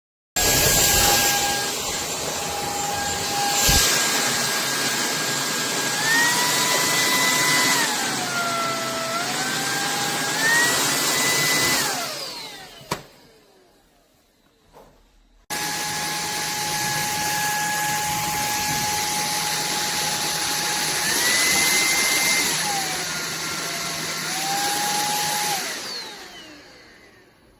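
Cordless stick vacuum's motor running with a steady whine and rushing air. Its pitch steps up, dips and climbs again a few times as the motor speed changes, and it winds down with a falling whine about 12 seconds in. It starts again suddenly a few seconds later, goes through the same pitch changes, and winds down again near the end.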